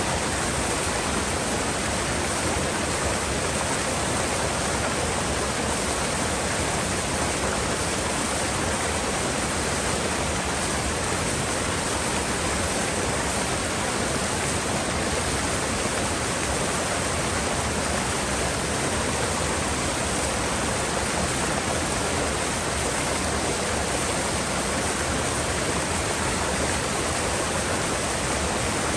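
Mountain river rushing over rocks in a gorge: a steady, unbroken roar of flowing water.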